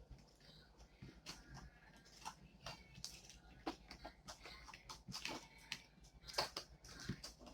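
Slime being mixed and kneaded by hand, giving faint, irregular sticky clicks and squelches.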